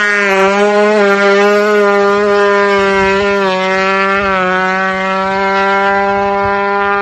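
Tuned motorcycle engine held at high revs, a steady, constant-pitched note with small wavers in pitch.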